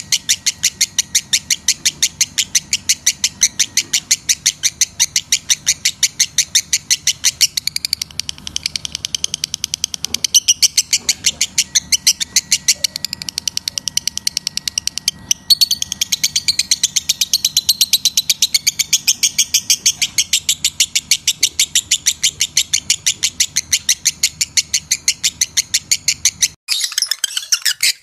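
Lovebird chattering in a long, rapid string of sharp, high chirps, several a second, over a faint low hum. Near the end it cuts abruptly to a busier, more jumbled stretch of chirping.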